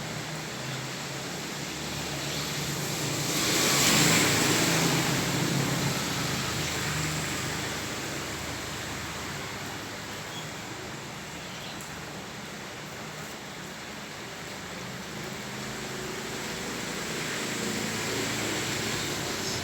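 Steady rain hiss on a flooded street, with a low engine hum underneath. About four seconds in, a vehicle passes, its tyres swishing through the water, and the sound swells and then fades.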